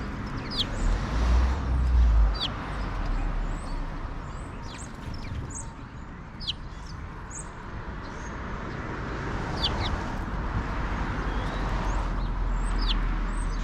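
Sparrows chirping, short sharp calls repeated throughout over a steady outdoor background hum and low rumble.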